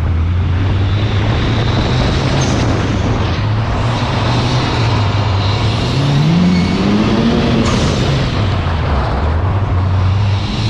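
Mitsubishi Lancer Evolution V's turbocharged 2.0-litre inline-four running hard, loud and steady, with a rev rise about six seconds in that climbs, peaks and falls back.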